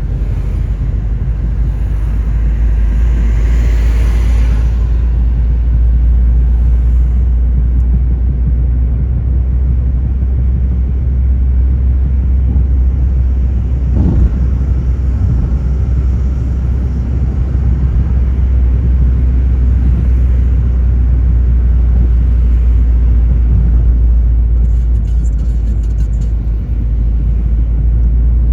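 A car being driven, with a steady low rumble of engine and tyres on the road. A hiss swells up and dies away a few seconds in, and there is a single short knock about halfway through.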